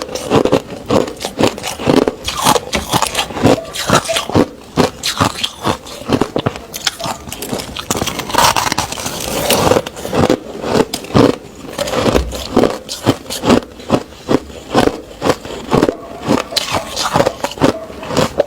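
Crushed ice being bitten and chewed close to the microphone: a continuous run of sharp, crisp crunches.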